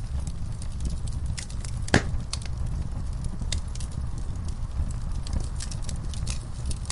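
Wood fire burning in a fireplace: logs crackling with many scattered sharp pops, one loud pop about two seconds in, over a steady low rumble of the flames.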